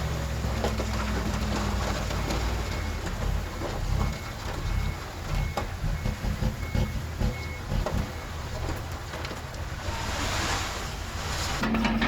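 Diesel engines of earthmoving machinery running, with a backup alarm beeping at an even pace through the middle. A brief rush of noise comes near the end.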